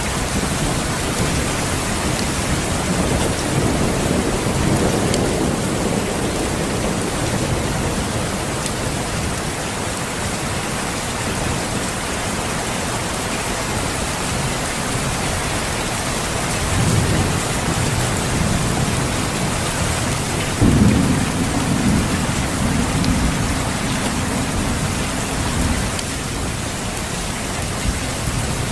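Steady rain with thunder. Low rumbles roll in a few seconds in and again past the middle, and a louder, sudden rumble breaks about three-quarters of the way through and dies away over several seconds.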